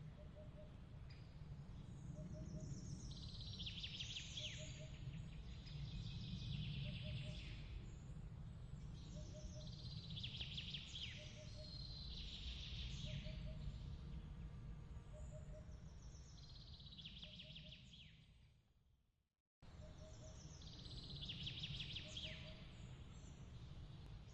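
Ambience bed of repeated chirping calls every couple of seconds over a steady low rumble, with a faint regular pip about once a second. Near the end it fades to silence and then cuts back in abruptly, as at the seam of a loop.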